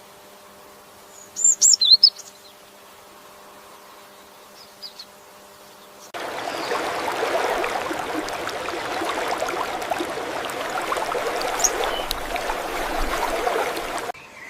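Bird chirps, a quick cluster of high calls about a second and a half in and one faint call later, over a low steady hiss. About six seconds in, a dense crackling buzz starts suddenly and runs at a steady level until it cuts off just before the end.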